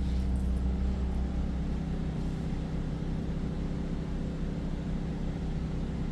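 Pulsar PGD40ISCO inverter generator running steadily under the load of an air conditioner, a constant low engine hum; the deepest part of the hum eases slightly about two seconds in.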